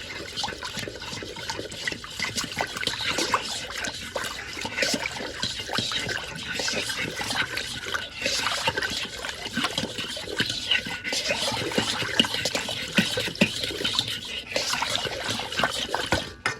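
Pickling liquid of vinegar and date syrup being poured into glass jars of vegetables: a continuous splashing trickle with many small knocks and clicks, cutting off suddenly at the end.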